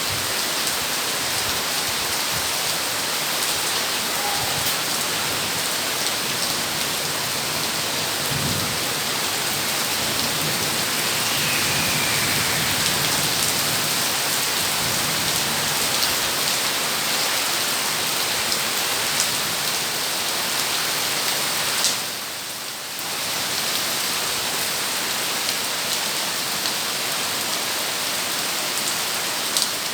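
Heavy rain pouring steadily, a dense even hiss of drops on surfaces, dipping briefly for about a second roughly two-thirds of the way through.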